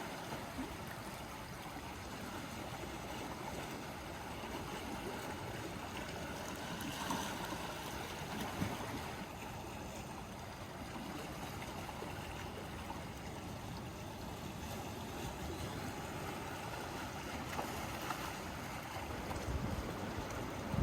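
Gentle sea waves washing against the shore in a steady, continuous wash, swelling slightly now and then.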